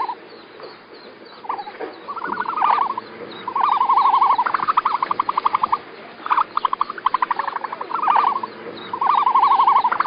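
Animal calls: a run of short trilling bursts at one steady mid pitch, each a rapid rattle of pulses, following one another with short gaps.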